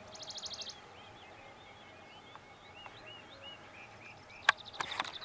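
Small birds calling: a fast trill of evenly spaced notes at the start, then a run of short arched chirps repeated a few times a second. A few sharp clicks near the end.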